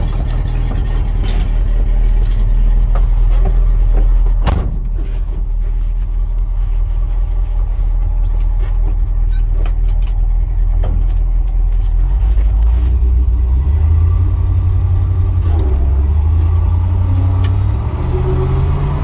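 1982 International Harvester 1824 truck's engine running at a steady idle, its low note stepping up in pitch in the last several seconds. A sharp knock about four seconds in.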